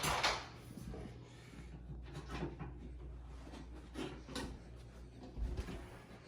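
Handling noises: a burst of rustling at the start, then a few scattered knocks and clicks from objects being moved about.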